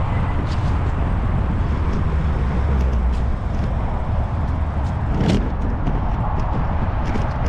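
Wind rumble on the microphone and tyre and road noise from a moving bicycle, with car traffic; a vehicle passes about five seconds in.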